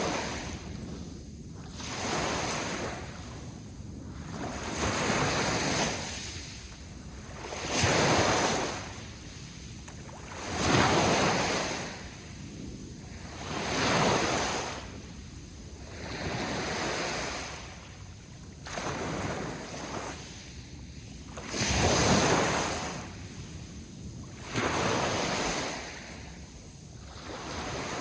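Sea waves washing onto the shore, one surge after another about every two to three seconds, each rising and then falling away.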